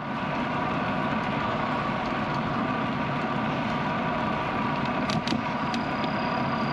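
Steady rush of wind and tyre noise from a bicycle being ridden, picked up by a bike-mounted GoPro Hero 10, with a few brief clicks about five seconds in.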